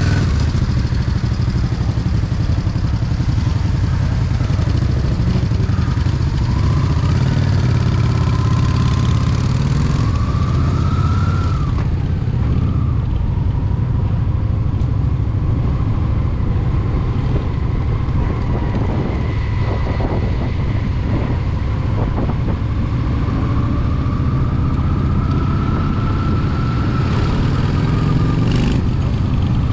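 Honda Shadow VT750's V-twin engine running steadily under way, with wind rushing over the helmet-mounted microphone.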